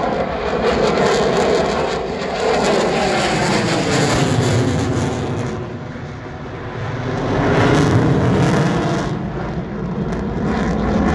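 F-16 fighter jet's engine roaring through a display pass, with pitch lines sliding as the jet moves. The roar fades about six seconds in and swells again about two seconds later.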